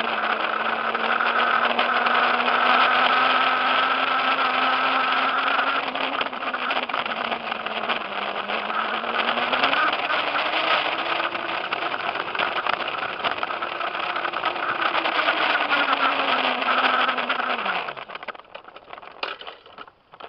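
Razor electric dirt bike running under the rider, its motor and chain drive whining, the pitch rising and falling with speed. Near the end the whine drops in pitch and fades as the bike slows to a stop.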